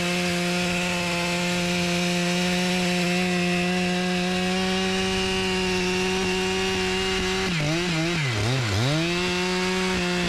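Two-stroke chainsaw held at full throttle in a cut, its engine note high and steady for about seven seconds, then bogging down and picking back up twice before returning to full revs near the end.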